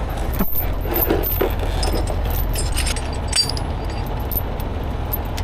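Steel tow chain clinking and rattling as it is handled and hooked to a truck axle, with scattered metallic clinks over a steady low engine rumble.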